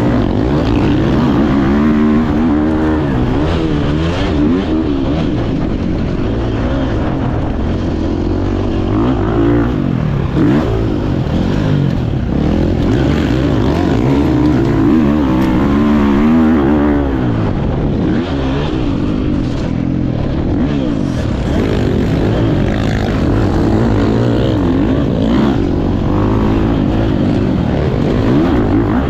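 Motocross bike engine revving up and falling off again and again as the rider accelerates and shifts around the track, with wind rumbling on the mounted camera's microphone.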